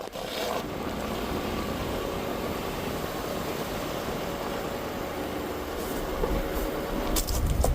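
Ford Super Duty pickup truck driving, with steady road and tyre noise and the drone of the truck underneath. A few sharp clicks and a low bump come near the end.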